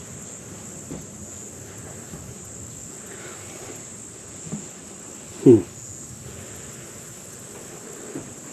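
Insects trilling steadily at a high pitch in swampy forest. About five and a half seconds in, one brief louder low sound falls in pitch.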